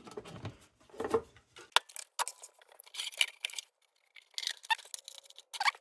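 Scattered light clicks, taps and short scrapes from small metal and plastic parts being handled on a workbench.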